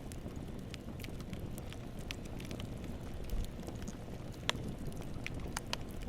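Wood campfire burning: a steady low rumble with scattered sharp crackles and pops, one louder pop about four and a half seconds in.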